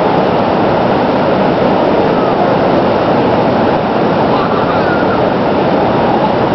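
Heavy lake surf, large waves driven up by a gale, breaking and washing in as a loud, steady rushing noise.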